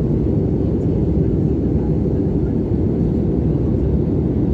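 Steady low rumble of airflow and engine noise heard inside the cabin of an Airbus A320-232 in flight, its IAE V2500 turbofans running.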